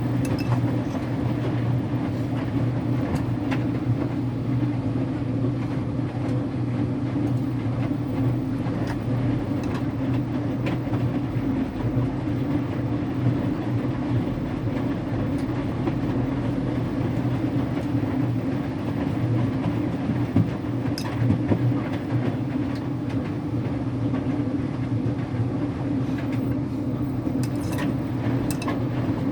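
Electrolux Wascator W355H washer-extractor running its wash cycle: a steady motor hum and drum rumble, with a few light clicks near the end.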